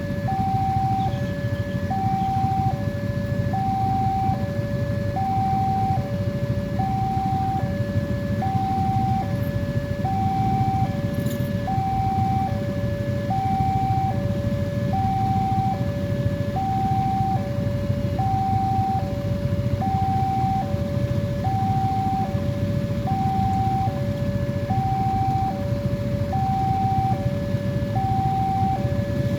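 Railway level-crossing warning alarm sounding a steady electronic two-tone signal, alternating high and low pitch about once every second and a half, with a steady low rumble underneath.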